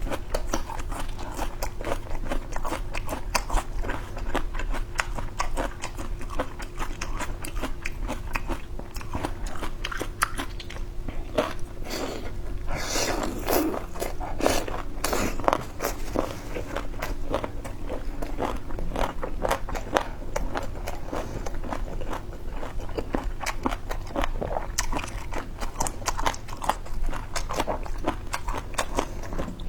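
Boneless chicken feet being bitten and chewed, a steady run of short, crisp crunches and wet chewing.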